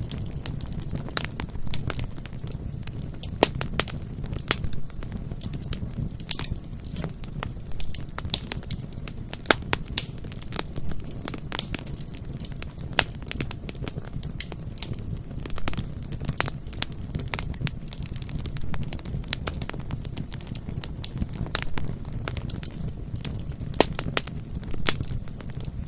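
Bonfire burning, with a steady low rumble of the flames and frequent irregular sharp crackles and pops from the burning wood.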